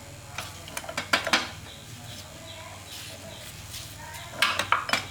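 Sharp metal clinks and knocks of tools or parts being handled, over a steady low hum. There are a few strikes in the first second and a half and a quick cluster of them near the end.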